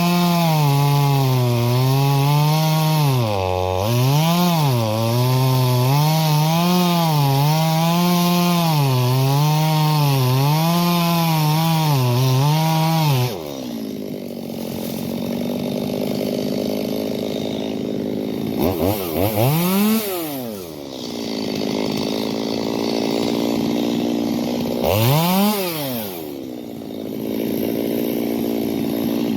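Stihl MS250 two-stroke chainsaw cutting wood, its engine speed rising and falling under load. Partway through it runs quieter and steadier, the pitch dropping and recovering twice, and it cuts off abruptly at the end.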